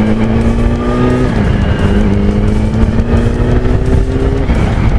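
Yamaha YZF-R1's inline-four engine, through a Yoshimura exhaust, accelerating under load. The pitch climbs steadily, drops at an upshift about a second in, climbs again, and drops at a second upshift near the end, with wind rumble underneath.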